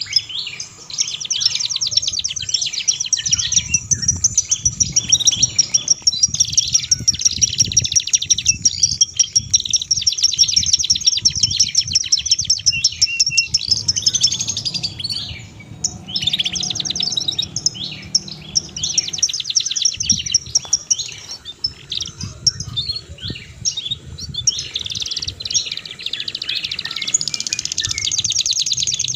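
Small songbird singing a dense, rapid stream of high chirps and trills, with a short lull about halfway, over a low rumble underneath.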